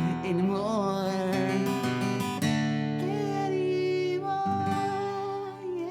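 Acoustic guitar strummed, its chords ringing on, under a long wordless sung note that wavers in pitch.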